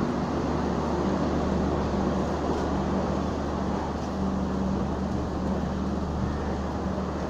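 Air-conditioned express passenger coaches rolling slowly past as the train pulls out: a steady rumble with a constant low hum.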